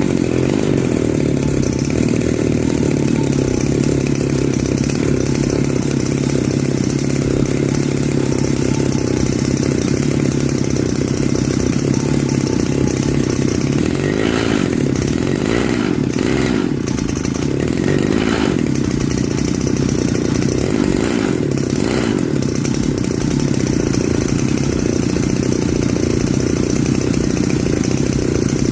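Small engine of a gas stand-up scooter running steadily at idle through its exhaust, with a few short sharper sounds about halfway through.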